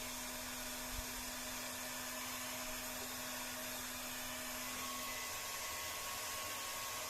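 Heat gun running steadily: a motor whine over the hiss of blowing air. There is a small knock about a second in.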